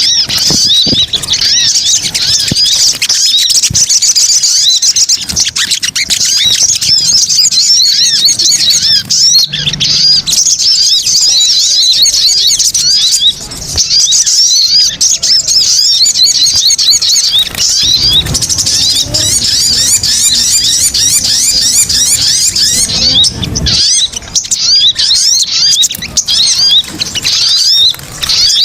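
Sogon (sogok ontong) birds calling in a dense, excited chatter of rapid, high overlapping chirps, played as a lure call to draw other sogon in.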